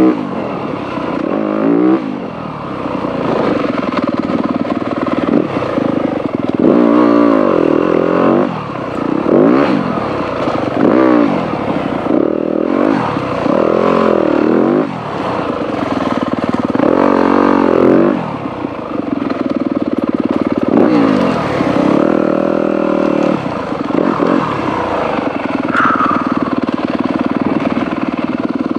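Dirt bike engine revving up and down over and over as the rider works the throttle through trail riding, the pitch climbing and dropping every second or two.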